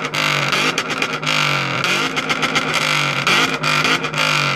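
Car engine revved hard through a loud exhaust, its pitch rising and falling several times, with many sharp crackles.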